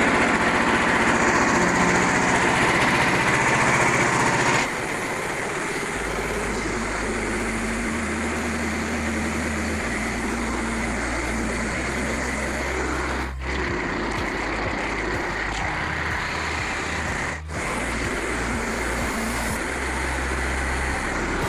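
Portable bandsaw sawmill running under load, its small gas engine driving the band blade through a frozen maple log. The steady machine noise drops a little in level about five seconds in and dips briefly twice in the second half.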